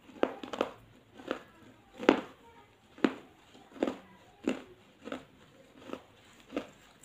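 A person chewing food with the mouth closed, a short wet crunch or click at each chew, in a steady rhythm of about one and a half chews a second.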